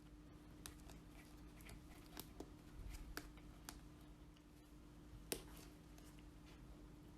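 Faint, scattered clicks and light taps of small parts and hand tools being handled during work on a scale model, over a low steady hum. One sharper click comes about five seconds in.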